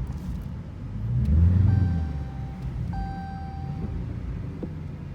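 Muscle car engines rumbling at low speed in a parking lot, one swelling louder about a second in. Two steady electronic beeps, each about a second long, sound around the middle.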